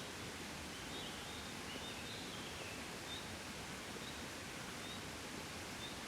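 Gentle, steady breeze blowing, a soft even rush of wind. Faint short high chirps come about once a second, with a brief falling run of chirps a little under two seconds in.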